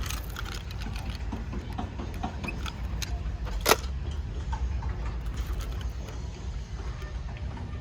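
Scattered light clicks and rattles over a steady low rumble, with one sharp click about three and a half seconds in.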